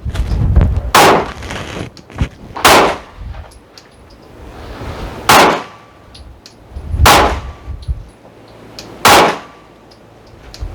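Five pistol shots fired one at a time, about two seconds apart, while a red-dot sight is being zeroed. Gusty wind buffets the microphone with a low rumble, strongest near the start.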